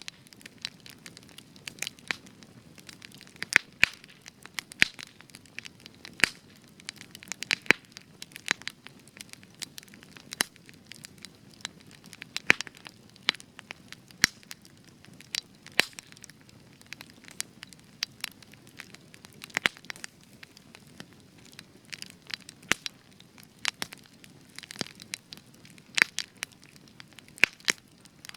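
Spruce wood burning in a campfire, crackling with frequent sharp, irregular pops and snaps over a soft low rush of flame.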